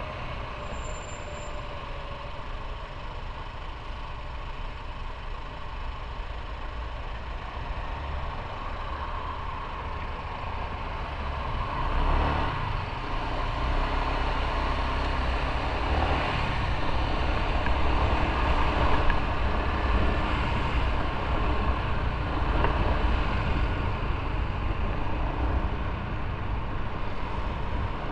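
Motorcycle on the move in road traffic: a steady mix of engine, tyre and wind noise with a heavy low rumble, which grows louder about twelve seconds in.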